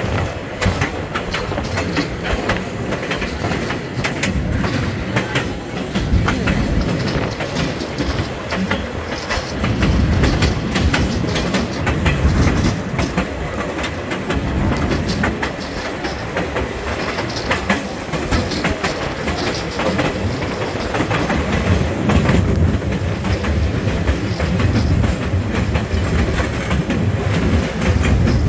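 Passenger train cars rolling along jointed track, heard from an open-air car: a steady rumble with wheels clicking over the rail joints. The rumble grows heavier about ten seconds in and again past twenty seconds.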